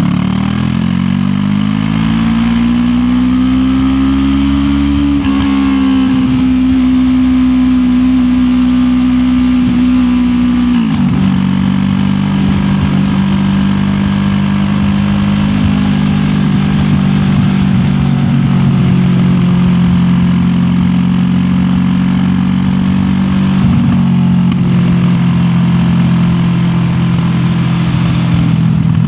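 QJ Motor SRT 700X motorcycle's parallel-twin engine under way. Its pitch rises as it accelerates, holds, then drops sharply about eleven seconds in and settles into a steady, lower-revving run. Heard from a recorder carried in the rider's backpack.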